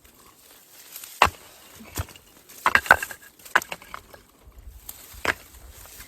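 Dry fallen leaves rustling and crackling as they are handled and spread on the ground, in a series of short sharp crackles.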